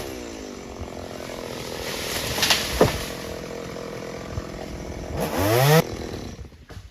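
Chainsaw engine dropping from cutting speed to idle and running steadily, with two sharp cracks about a third of the way through. Near the end it revs up quickly in a short blip that cuts off abruptly.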